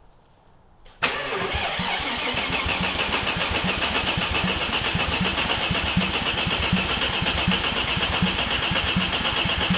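Starter motor cranking a BMW S50B30 inline-six, which turns over in a steady, even rhythm for about nine seconds without catching; it starts suddenly about a second in. The engine gets no fuel because the fuel lines are hooked up backwards.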